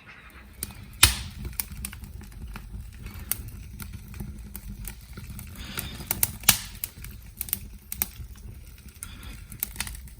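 Wood burning in a fireplace, crackling with irregular sharp pops, one especially loud about a second in.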